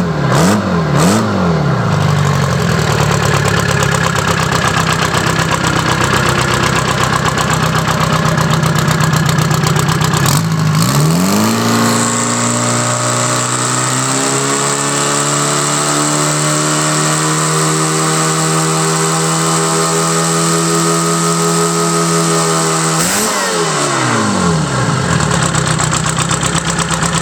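Detroit Diesel 4-53 four-cylinder two-stroke diesel engine idling, blipped twice near the start, then revved up about ten seconds in and held at high speed for roughly twelve seconds before dropping back to idle.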